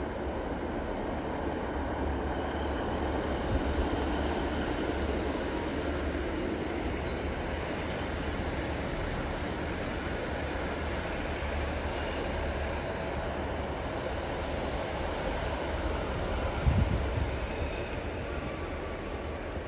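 A passenger train rolling slowly on station track with a steady rumble. Its wheels give several short, high squeals from the flanges on the curved pointwork, and there is a low thump near the end.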